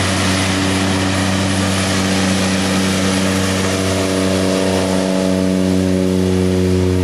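Cessna Caravan single-engine turboprop at takeoff power during its takeoff run, a loud, steady propeller drone with a hum of even tones.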